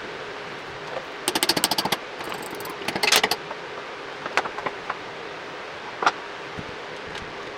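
Two short runs of rapid mechanical clicking, each under a second, followed by a few separate sharp knocks, over a steady background hiss.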